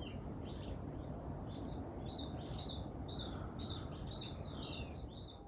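Birds chirping: a rapid run of short, high, falling notes over a steady low background hiss.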